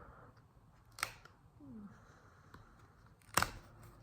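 Two sharp clicks from small repair tools and phone parts being handled: a lighter one about a second in and a louder one a little past three seconds.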